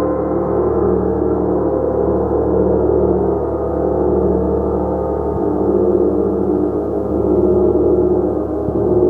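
Gong played continuously, a dense, sustained wash of many overlapping tones that swells gently in loudness without any break.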